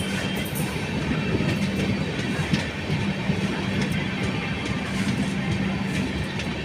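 Passenger train in motion: a steady rumble of wheels running on the track, with a few faint clicks.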